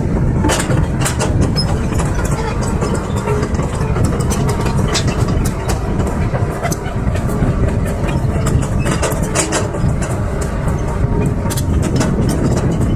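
Heavy diesel machinery running steadily, with frequent metallic clanks and knocks over the engine.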